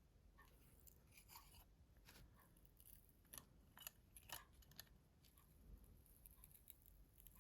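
Near silence with faint, scattered small clicks and scrapes: hand work on a mobile phone's internals as a flex cable is worked loose.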